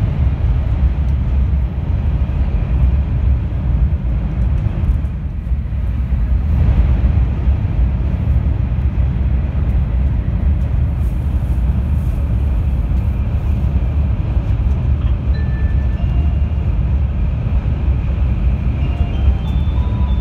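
Steady heavy low rumble of a 700 Series Rail Star Shinkansen running through a tunnel, heard inside the passenger car. Near the end, a short run of high electronic chime notes sounds over it.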